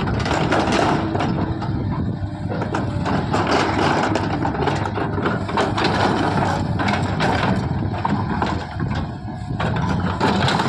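JCB 3DX backhoe loader's diesel engine running under work, with repeated short knocks and clanks on top.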